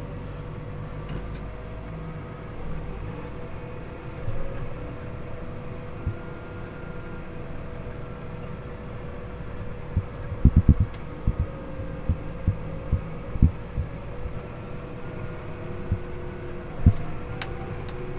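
A vehicle towing a loaded low-loader trailer, heard from inside the cab: a steady engine and road drone with a constant hum. From about ten seconds in, a run of short low thumps cuts through it.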